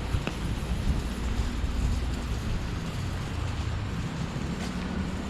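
Steady low rumble of a motor vehicle, with a brief high tone near the start and a faint click late on.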